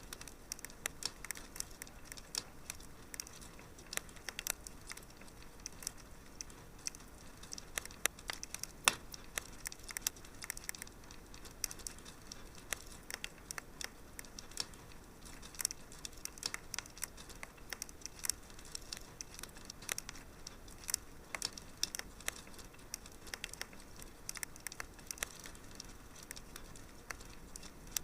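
Wood fire in a fireplace crackling: a dense, irregular run of small sharp pops and snaps over a faint hiss, with an occasional louder pop.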